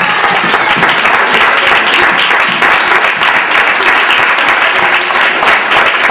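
Audience applauding loudly and steadily at the end of a school play.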